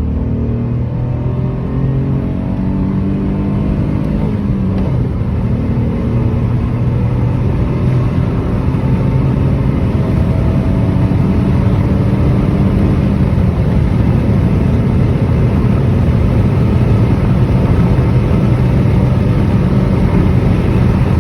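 Peugeot 301's 1.2 PureTech three-cylinder petrol engine under full-throttle acceleration, rising in pitch and dropping back at each gear change, about a second and a half in and again near five seconds. Road and wind noise build steadily as the speed climbs.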